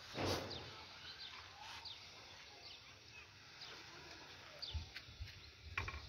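Birds chirping, scattered short calls over a faint outdoor background. A brief noise burst comes just after the start, and a few low thumps near the end.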